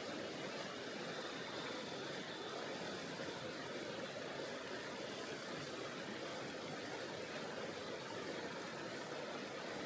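Mountain river flowing over rocks: a steady, even rushing of water.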